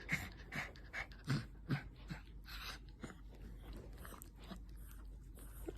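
Small puppies licking and mouthing at close range: a run of small, irregular wet smacks and clicks, busiest in the first three seconds.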